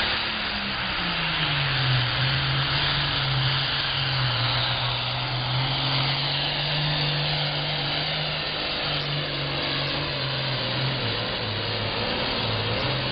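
Case 2290 farm tractor's turbocharged six-cylinder diesel engine running flat out under load while pulling the sled; its pitch drops about a second in as it lugs down, then holds steady with a brief further sag near the end.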